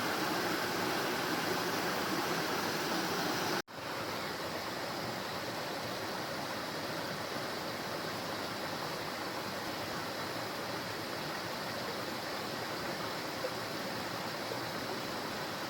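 Waterfall rushing steadily. It cuts out for a split second almost four seconds in, then resumes a little quieter.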